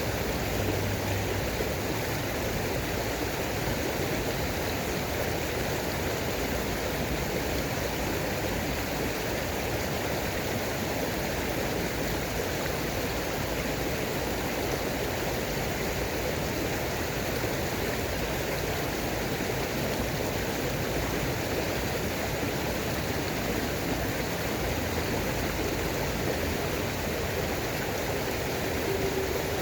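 Running water: a steady, unbroken rush of a stream or small waterfall.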